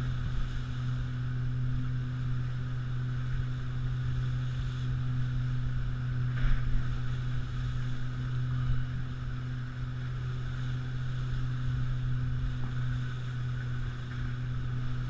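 Pontoon boat's outboard motor running steadily at cruising speed, a constant low drone. A short louder burst of noise comes about six and a half seconds in.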